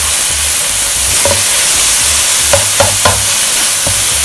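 Minced beef and chicken pieces sizzling in hot oil in a wok, a steady hiss. A spatula scrapes and knocks against the pan a few times in the second half as the meat is pushed around.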